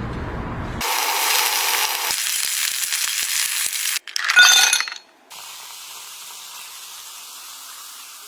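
A steady sizzling hiss with a few sharp clicks. About four seconds in comes a loud, brief clinking clatter. After a short break, a quieter steady hiss follows. The sections change abruptly.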